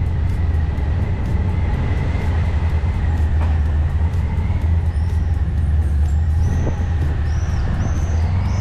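Honda ST1100 motorcycle's V4 engine running steadily under way, with road and wind noise, and a few short high chirps in the second half.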